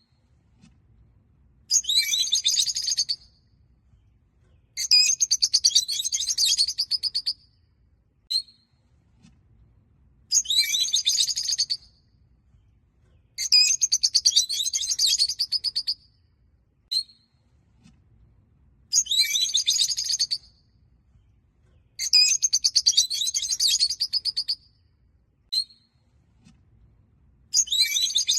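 Rosy-faced (peach-faced) lovebirds chattering: bouts of rapid, high-pitched chirping lasting one to two seconds, repeating every few seconds, with single short chirps in between.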